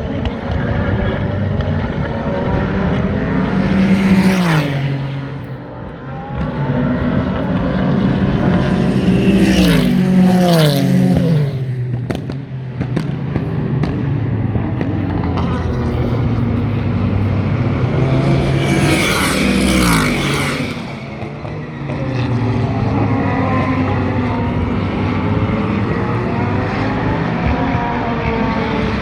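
Super GT race cars passing close by at speed, several in turn, the engine note of each dropping in pitch as it goes past. Between passes, other cars' engines run on around the circuit.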